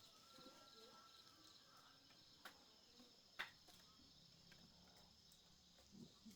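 Near silence with faint, steady insect chirring, likely crickets, and two faint clicks about halfway through.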